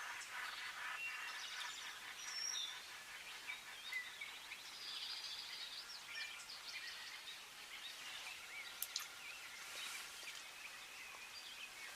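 Faint chorus of songbirds: scattered chirps, whistles and short warbling phrases from several small birds, over a light outdoor hiss.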